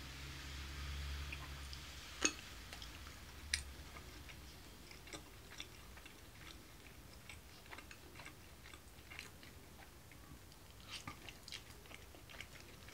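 A person quietly chewing food, with many small mouth clicks, and two sharper clicks about two and three and a half seconds in.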